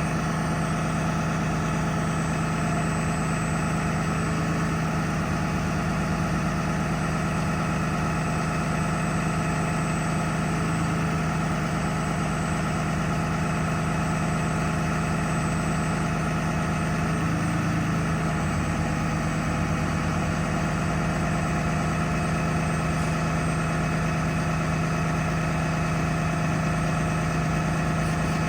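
Cummins 6.7 L turbo diesel in a Freightliner M2 truck running steadily, one even drone with no change in engine speed.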